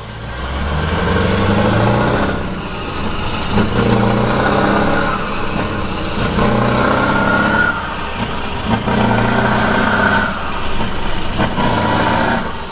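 Scania R560 truck's V8 diesel engine running, its note swelling and easing in repeated cycles about every two and a half seconds.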